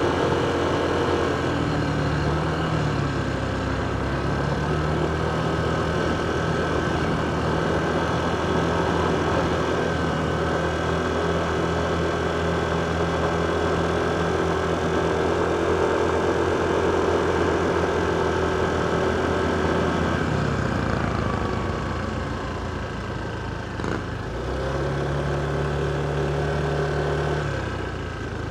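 Motorcycle engine running during a ride, its note stepping down and back up a few times with throttle and gear changes. It eases off and goes quieter about twenty seconds in, then picks up again near the end.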